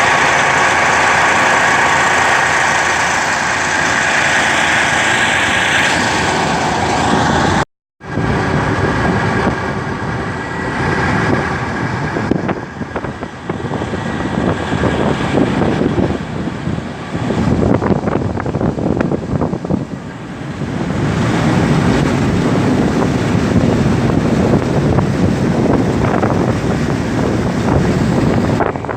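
Kostromich motorboat's engine running steadily. After a cut about eight seconds in, gusty wind buffets the microphone over the engine's rumble as the boat is underway.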